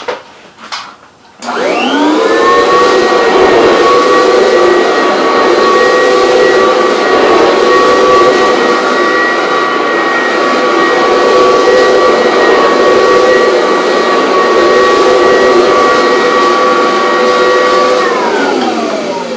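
Vacuum cleaner motor switched on, its whine rising to speed within about a second and then running steadily and loud. It is switched off near the end and winds down with a falling pitch.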